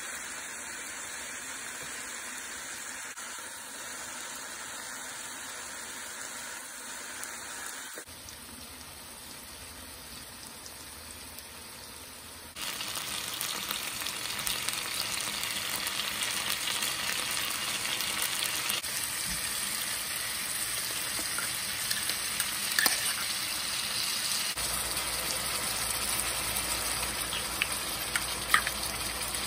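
Chicken pieces frying in hot oil in a pan, a steady sizzle that gets louder about halfway through. A couple of sharp clicks stand out near the end.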